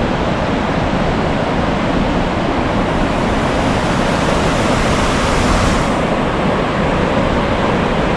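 Waterfall rushing: a loud, steady wash of falling water. For a couple of seconds past the middle an extra high hiss joins in and cuts off sharply.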